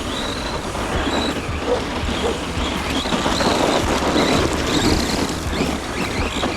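Tamiya Monster Beetle RC truck's 3300 kV electric motor whining, pitch rising and falling with the throttle, over a steady rush of drivetrain and tyre noise.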